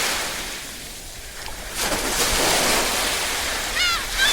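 Small waves lapping at the shore: one wash ebbs away, and a new one swells in about two seconds in. A brief run of quick, high chirps sounds near the end.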